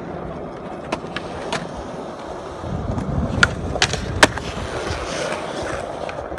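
Skateboard rolling on concrete, a steady rumble of the wheels, with several sharp clacks of the board from the middle onward, the loudest a little past four seconds in.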